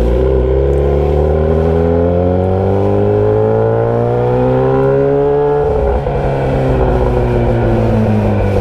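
Motorcycle engine running loud through a bare pipe with the muffler removed, accelerating with its note rising steadily for about five and a half seconds, then easing off as the pitch falls.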